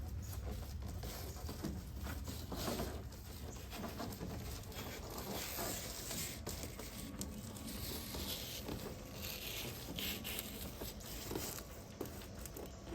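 Irregular rustling, light scraping and small clicks from handling a Bedrug foam-backed liner panel and pressing it into place on a truck tailgate.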